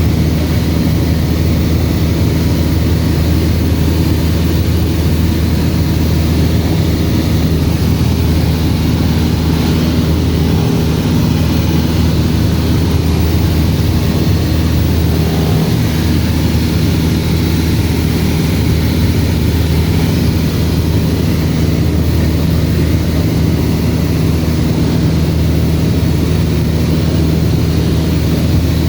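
Cessna 172RG's four-cylinder Lycoming engine and propeller running steadily: a loud, even drone with no change in pitch.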